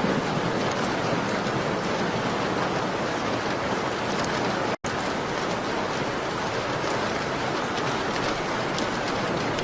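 Steady rain on a window pane, an even hiss with faint scattered ticks of drops. The sound cuts out completely for a split second about halfway through, then carries on unchanged.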